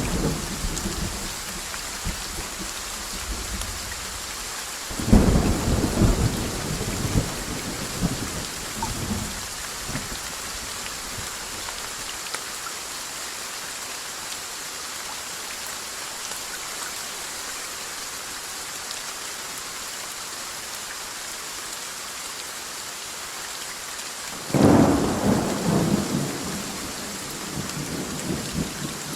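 Steady heavy rain with two rolls of thunder, one about five seconds in and one near the end, each rising suddenly and rumbling away over a few seconds.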